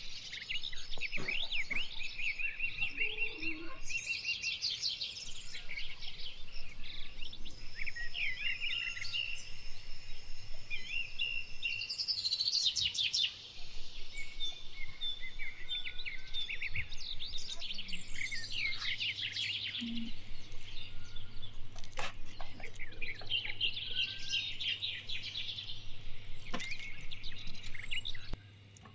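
Small birds chirping and calling, many short chirps and trills overlapping, with a few held whistled notes.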